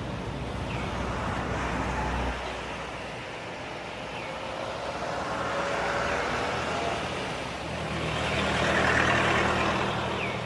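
Road traffic: vehicles passing by, their noise swelling up twice, about six and nine seconds in.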